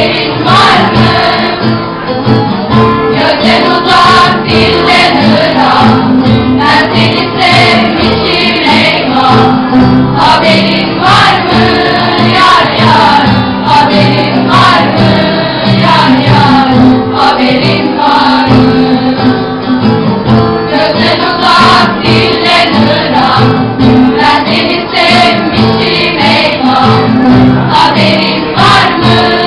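A song with singing voices over instrumental accompaniment, playing continuously.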